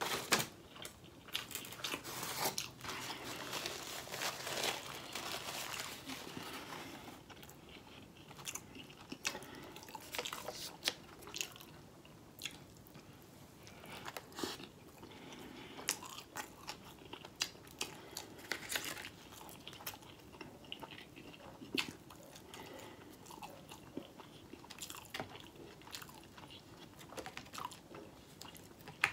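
A person chewing food with crunches and wet mouth clicks. The chewing is busiest for the first several seconds, then settles into scattered clicks and smacks.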